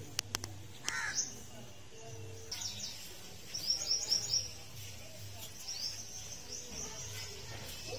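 Small birds chirping: short, high, falling chirps, with a quick run of four about halfway through and a few more scattered after. A few sharp clicks sound right at the start.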